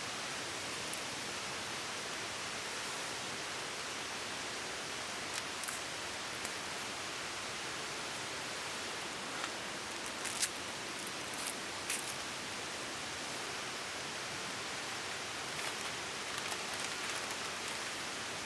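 A steady outdoor hiss of rushing noise, with a few sharp ticks and clicks around the middle.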